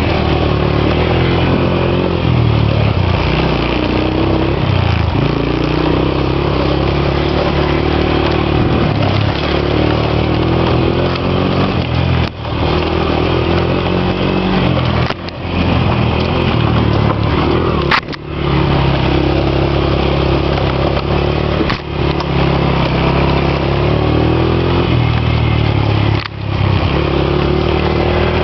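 A motorcycle engine running under way while riding, its pitch rising and falling with the throttle, with a few brief drops in level.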